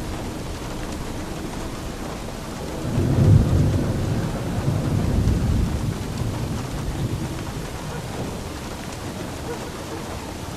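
Steady rain falling, with a low roll of thunder that swells about three seconds in and slowly fades away.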